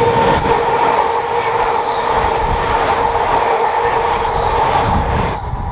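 Passenger train running through the station at speed: a loud, steady rush of wheels and air with a held humming tone, which drops away sharply about five seconds in as the last carriage clears.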